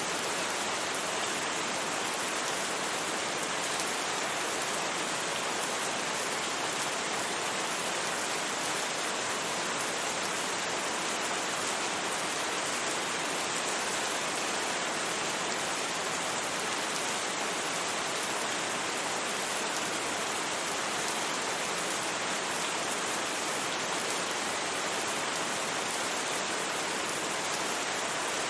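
Steady, even rain with no thunder and no distinct drops standing out.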